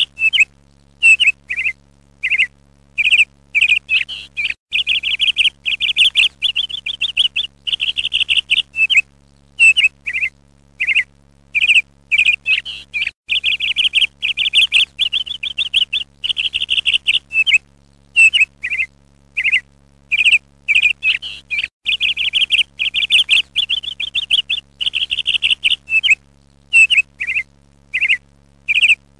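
A songbird chirping and trilling in quick runs of rapid high notes, broken by short pauses.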